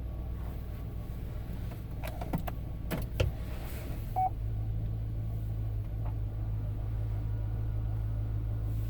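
2007 Tahoe's 5.3-litre V8 running with a steady low hum. A few clicks come about two to three seconds in and a short beep about four seconds in, after which the hum grows louder and steadier.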